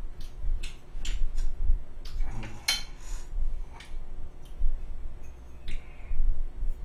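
Close-miked chewing and lip smacking while eating garlic baguette: a string of sharp, wet clicks at irregular spacing, with a louder smack a little before the middle. Near the end a metal fork touches the bread plate.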